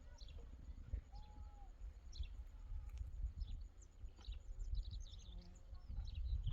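Small birds chirping in short, high calls, scattered and growing busier toward the end, over a low rumble.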